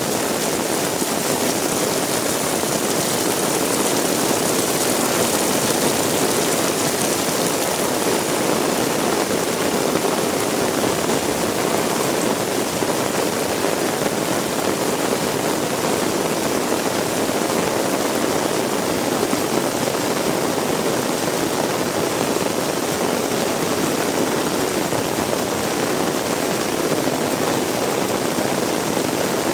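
Heavy rain pouring steadily, an even rushing noise with no let-up.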